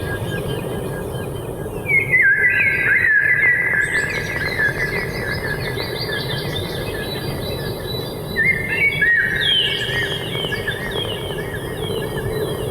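Several birds chirping in quick, overlapping calls, thickest about two seconds in and again in the second half, over steady low background noise.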